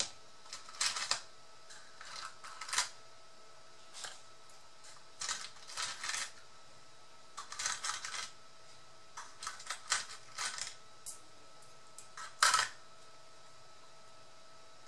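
Small metal brads clinking and rattling against each other as they are picked through by hand, in irregular clusters of light clicks, the loudest about twelve and a half seconds in.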